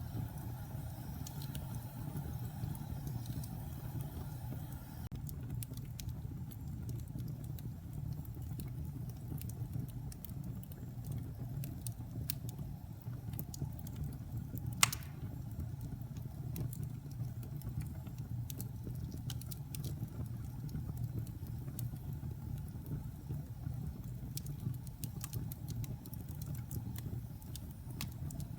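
Logs burning in a fireplace: a steady low rumble of the fire with scattered small crackles, and one sharp, loud pop about halfway through.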